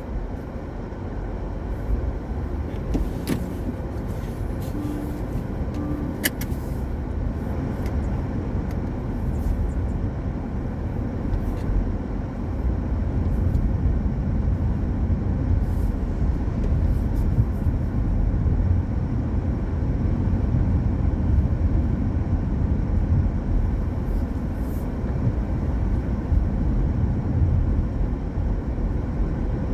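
A car driving on a rain-wet road: steady low road rumble and tyre noise, with a couple of brief clicks in the first several seconds.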